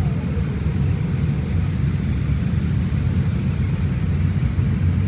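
Steady low rumble inside the passenger cabin of an Airbus A350-1000, from its Rolls-Royce Trent XWB engines.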